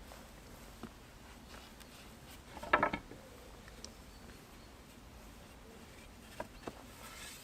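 Hand work with building materials: a short burst of scraping and knocking about three seconds in, with a few light knocks before it and two near the end.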